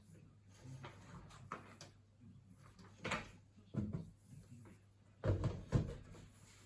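A few scattered knocks and thumps, the loudest two close together near the end, over a faint low hum.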